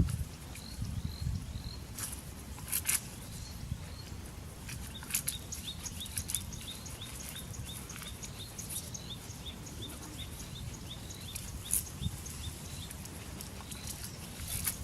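Outdoor ambience with a low rumble and a few scattered clicks or rustles. From about a third of the way in, a series of short high chirps repeats about four times a second for several seconds.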